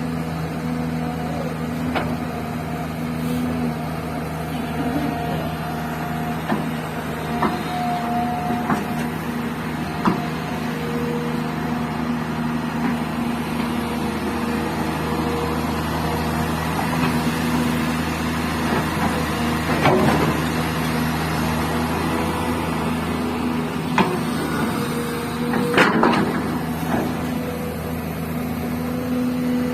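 Hydraulic excavator's diesel engine running steadily while loading gravel into a tipper truck, with scattered clanks and two louder clattering crashes, one about two-thirds of the way through and one near the end.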